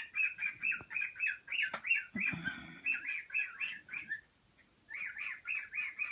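A bird chirping in quick repeated chirps, about five a second, in two runs with a short break about four seconds in.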